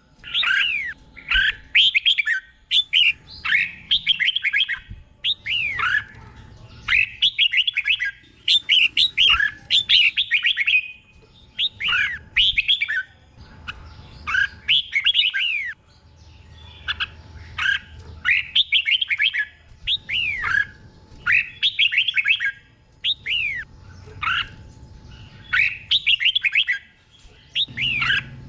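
Red-whiskered bulbul singing: short whistled phrases of quick up-and-down slurred notes, one after another every second or so, with phrases often doubled in close pairs.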